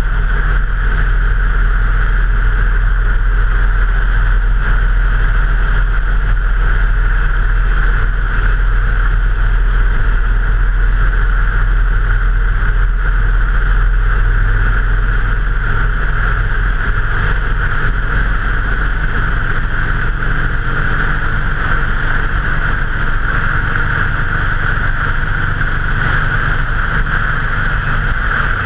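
A motor vehicle running at a steady cruise: a constant low engine drone with steady road and wind rush.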